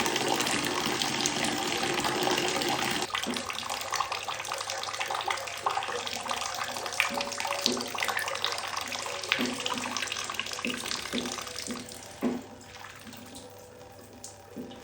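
Tap water running and splashing as a parrot plays in it. A steady stream for about the first three seconds gives way to broken splashing and dripping, which grows quieter near the end.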